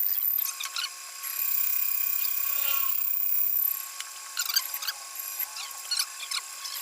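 A power tool running with a high-pitched whine that cuts out about half a second in, starts again a second later and stops near the middle, with scattered clicks and taps through the rest.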